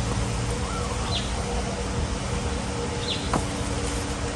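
Strong wind rushing over the microphone, with two short, high falling bird chirps about a second and three seconds in, and a single click just after the second chirp.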